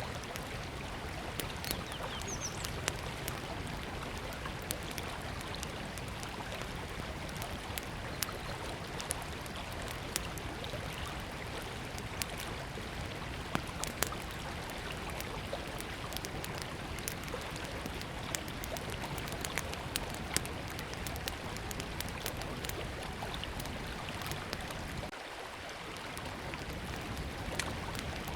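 River water flowing steadily, with a small wood campfire crackling over it in scattered sharp pops and snaps.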